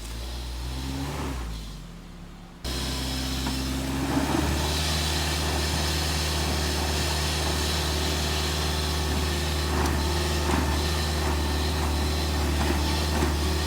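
Suzuki Jimny engine running under load on an off-road climb, a steady low drone. It jumps abruptly louder about two and a half seconds in and then holds steady.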